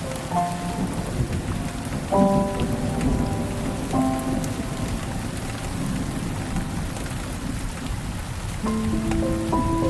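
Steady rain with a low rumble of thunder, under soft background music of held chords that come in briefly near the start, again from about two seconds in, and once more near the end.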